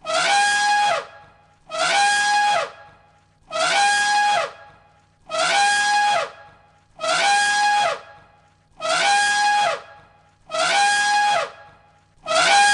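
Elephant trumpeting: the same call repeats about eight times, roughly one every second and a half. Each call holds a steady pitch for about a second and drops at the end, like a looped sound effect.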